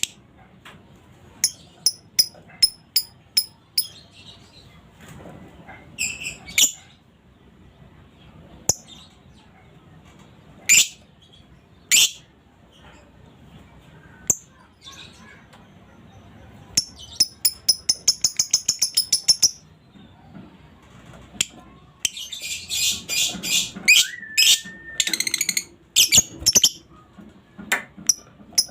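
Female lovebird calling with sharp, high-pitched chirps. Partway through, and again near the end, the notes run together into fast chattering runs of the kind called 'ngekek'.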